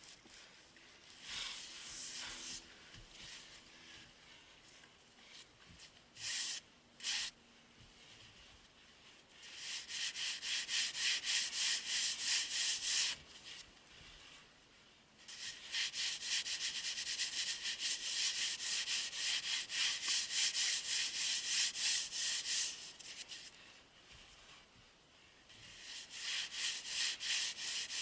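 Rhythmic scraping strokes, several a second, in long runs broken by short pauses, with a few brief scrapes before the first run.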